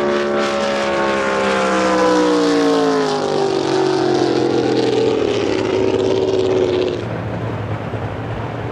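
Racing drag boat engine running loud, its pitch falling steadily over several seconds as it winds down or passes. About seven seconds in, the sound drops off sharply to a lower, rougher rumble.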